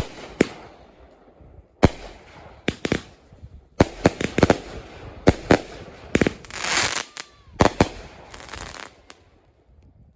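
Winda "Noise Complaint" 30-shot, 200-gram consumer fireworks cake firing: sharp shot reports at uneven intervals, coming thicker toward the middle, with the last one about nine seconds in.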